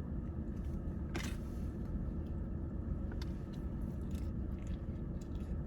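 A person chewing food close to the microphone, with one sharp crunch about a second in and faint smaller clicks after, over a steady low hum.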